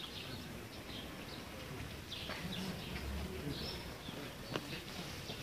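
Small birds chirping in the background with short, repeated high calls, and a single sharp click about four and a half seconds in.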